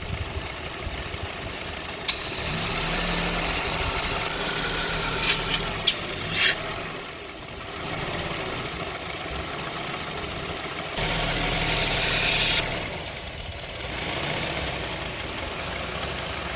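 2002 Honda CR-V's 2.4-litre four-cylinder engine idling, an engine with a rough, unstable idle. Two spells of loud hissing come in, about two seconds in and again around eleven seconds, with a few sharp clicks in the first.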